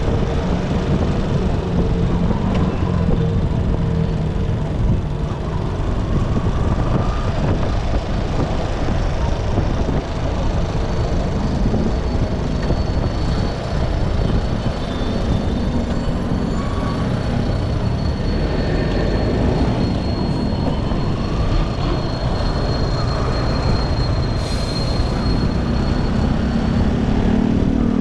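Motorcycle under way, its engine running with constant wind and road noise; the engine pitch rises and falls a few times as it speeds up and eases off. A faint thin high whine holds through much of the middle.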